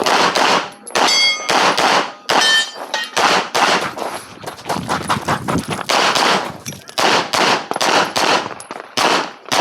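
Handgun fired in a fast string of shots during a USPSA practical shooting stage, several shots a second with brief pauses between bursts, and a few short metallic rings among the first shots.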